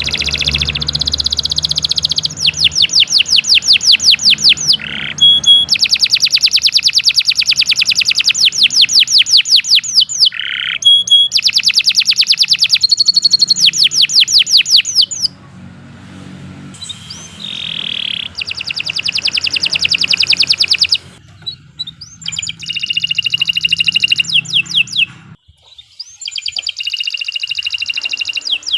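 Domestic canary singing long, fast trills of rapidly repeated sweeping notes, run after run, with a couple of brief pauses.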